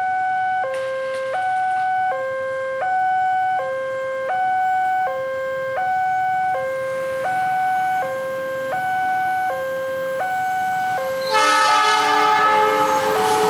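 Railway level-crossing warning alarm sounding two alternating tones, high then low, each held for under a second in an even repeating cycle. About 11 s in, an approaching train's horn sounds loudly over it.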